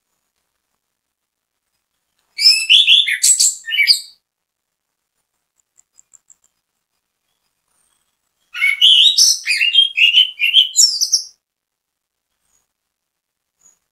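Orange-headed thrush (anis kembang) singing: two song phrases of quick, varied warbled notes, a short one and then a longer one a few seconds later, with a few faint high notes in the pause between.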